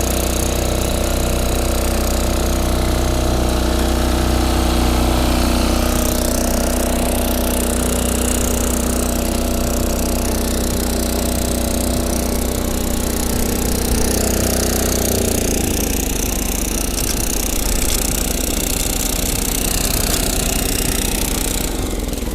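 Small engine of a Yanmar A-10V walk-behind cultivator running steadily under load as it tills in second gear, with a rattling clatter from the tines working the soil. The engine note shifts about 15 seconds in.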